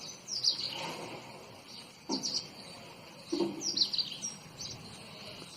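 Short, high bird chirps, some falling in pitch, repeated every second or so in small clusters.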